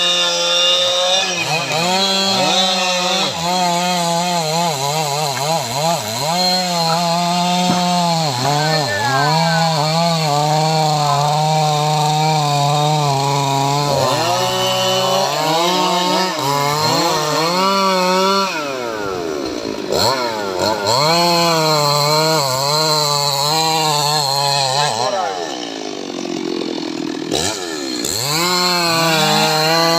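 Stihl MS 881 large two-stroke chainsaw at full throttle cutting teak, its pitch sagging as the chain loads up in the cut and climbing back again and again. About 25 seconds in it drops back and runs lower and quieter for a few seconds, then revs up again near the end.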